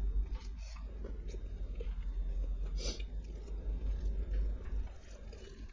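Close-miked chewing and wet mouth sounds of a person eating, with scattered small clicks and one louder smack about three seconds in.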